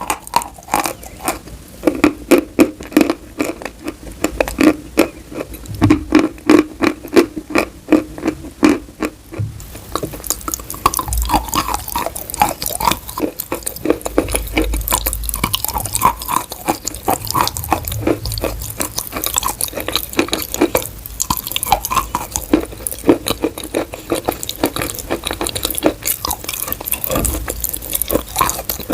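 Close-miked chewing of chalk, with rapid crisp crunching bites for about the first third, then a denser, wetter chewing noise for the rest.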